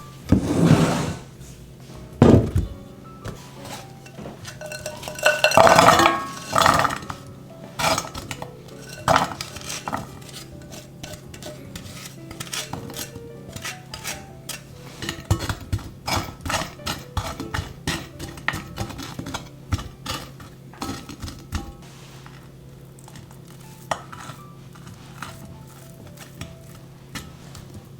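A kitchen utensil scraping and clinking against a mixing bowl while ingredients are mixed or spread. There are heavier scrapes near the start and a few seconds in, then a long run of quick clinks, a couple each second, through the middle.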